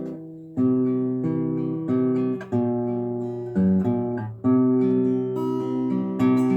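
Acoustic guitar strumming chords, about one strum every three-quarters of a second, with the chord changing every few strokes.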